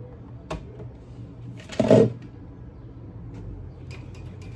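Cookware being handled at the stove: a light click, then a louder short clatter about two seconds in, and a few faint ticks near the end, over a steady low hum.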